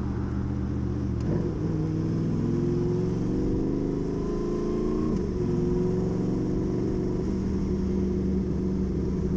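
Honda VFR800 V4 engine with a custom exhaust running. Its pitch climbs for a few seconds, drops sharply about five seconds in, then holds steady.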